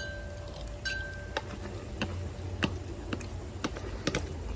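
Light clicks and clinks, roughly two a second, one with a short ringing tone about a second in: a utensil tapping against a dish while eating salad.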